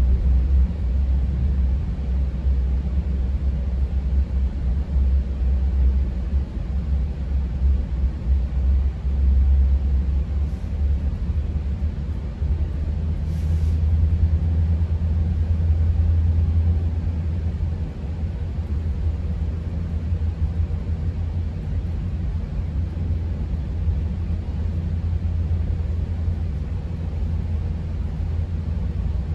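GO Transit bilevel commuter train running between stations, heard from on board: a steady low rumble of the coach rolling along the track.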